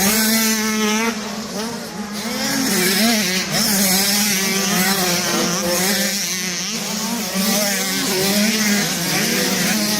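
A pack of motocross dirt bikes racing together, many engines revving at once, their pitches rising and falling as the riders accelerate and change gear.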